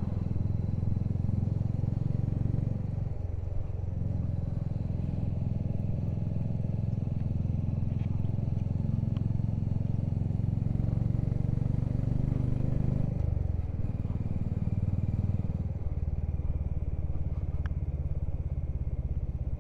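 Motorcycle engine running steadily while riding, heard from on the bike. Its note dips briefly about three seconds in and again about thirteen seconds in.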